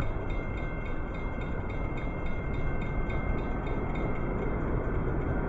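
Amtrak Auto Train approaching: a steady rumble that grows slowly louder, with a fast, even ticking high above it, about three a second.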